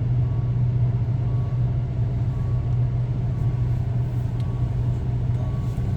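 Diesel engine running with a steady low drone, unchanged throughout, with a faint short high tone repeating about once a second.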